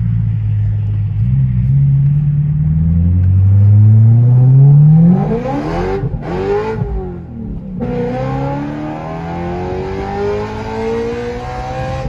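BMW E92 M3's 4.0-litre V8 accelerating hard through a modified exhaust with an X-pipe and modified stock mufflers. Very loud, its pitch climbs steadily for the first few seconds, breaks and dips around the middle as at a gear change, then climbs again more slowly.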